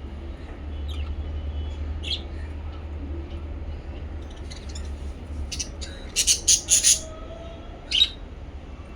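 Small pet parrots calling over a steady low hum: a few scattered chirps, then a quick run of four or five loud, sharp squawks about six seconds in and one more a second later.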